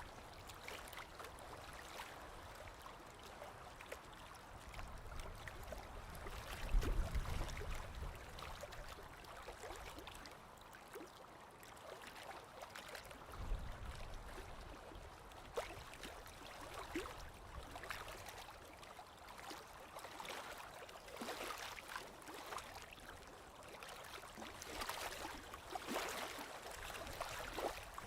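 Small waves lapping on a lakeshore: faint, irregular little splashes and trickles over an even wash of water. A low, soft thud comes about seven seconds in and again about thirteen seconds in.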